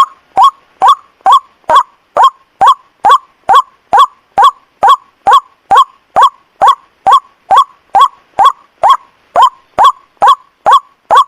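White-breasted waterhen (ruak-ruak) calling, a short note repeated evenly about twice a second without a break. It is a bird-lure recording of the night call, played to draw waterhens in.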